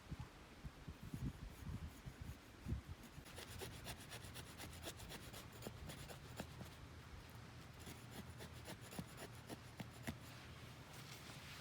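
A few soft knocks, then from about three seconds in a long run of rapid, fine scratching and scraping, like something being rubbed or rasped by hand.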